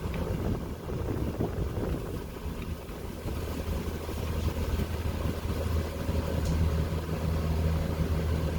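Car engine running at low revs, a steady low hum with road or wind noise, growing louder about six seconds in.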